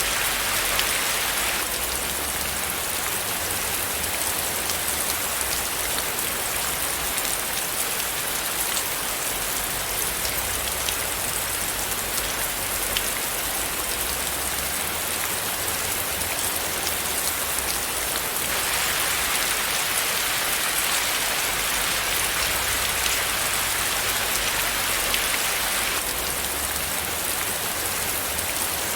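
Steady rain falling, a dense patter of drops on a surface. The tone of the rain shifts slightly about two seconds in, again a little past halfway, and once more near the end.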